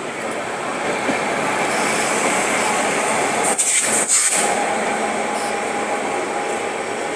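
Passenger train running along the track, heard from an open window: a steady rush of wheel-on-rail rumble and air noise, with a brief louder burst of hissing rush about three and a half seconds in.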